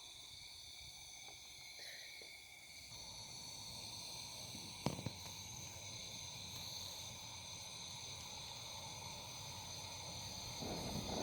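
Faint outdoor ambience: a steady, high chirring of insects, with one sharp click about five seconds in.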